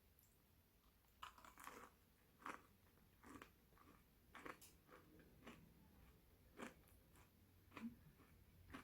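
Faint chewing of a crisp air-fried waffle coated with sugar crystals: small irregular crunches, roughly one a second, starting about a second in.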